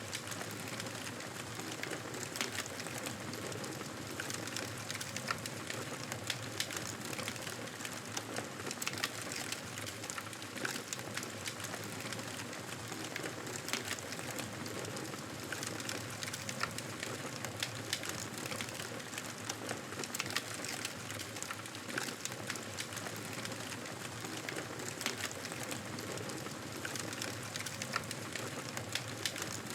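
Wood fire crackling in a fireplace: a steady hiss with frequent small pops and snaps scattered throughout.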